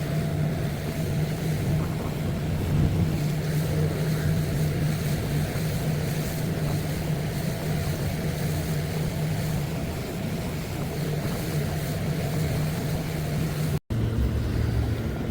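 Small boat's engine running steadily while underway, a constant low hum with hiss over it; the sound cuts out for an instant near the end.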